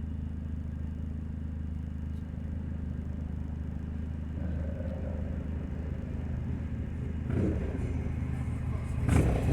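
2000 Nissan Altima's four-cylinder engine idling with a steady low exhaust drone from a leaking exhaust, which the owner puts down to the flex pipe. Another vehicle's engine grows louder over the last couple of seconds, a motorbike.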